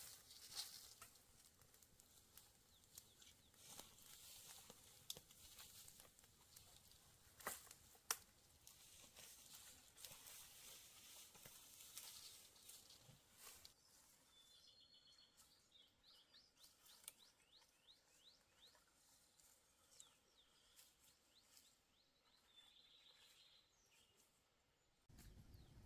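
Quiet forest ambience: faint scattered clicks and light rustling for the first half, then a small bird chirping in short high twitters from about halfway through.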